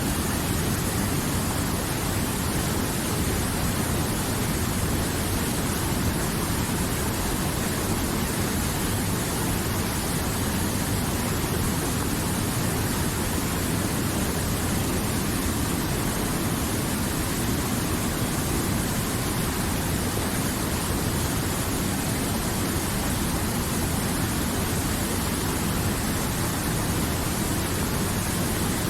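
River water flowing, a steady even rushing with no change in level.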